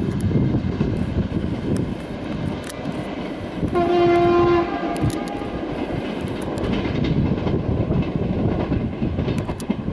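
Passenger train running away along the track, its wheels rumbling and clicking over the rails. A train horn sounds once near the middle, for about a second.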